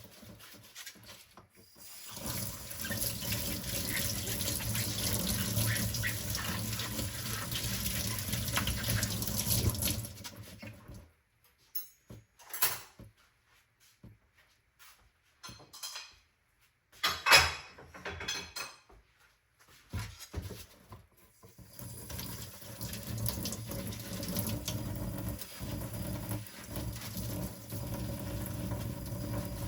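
Kitchen sink tap running steadily while dishes are washed by hand. Midway the water is off for about ten seconds, with a few clinks and knocks of dishes and one sharp clink louder than the rest, then the tap runs again.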